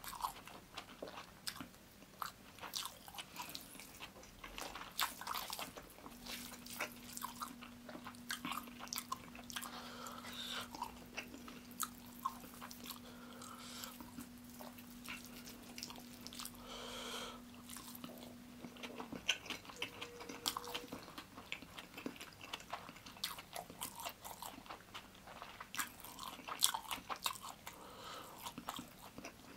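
Close-miked chewing and wet mouth sounds of a person eating biryani rice and chicken by hand, with frequent irregular lip smacks and clicks.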